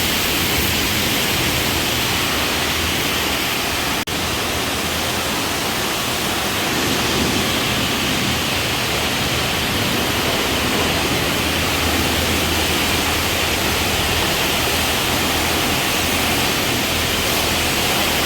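Automatic car wash: a steady rushing hiss of water jets spraying onto the car body, heard from inside the car, with a brief break about four seconds in.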